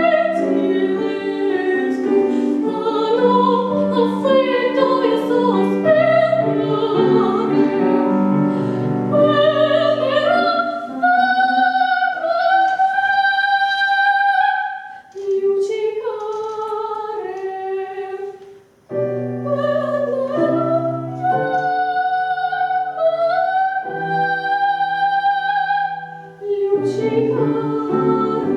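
A female voice singing a classical song in operatic style over piano accompaniment: long held notes with vibrato, with short breaks between phrases.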